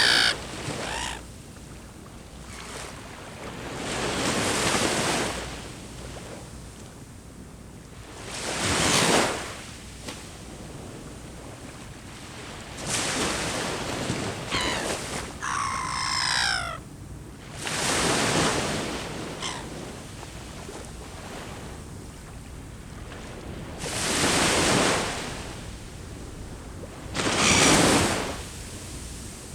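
Sea waves breaking and washing up the shore, a surge every four or five seconds. About halfway through, a bird gives one falling call.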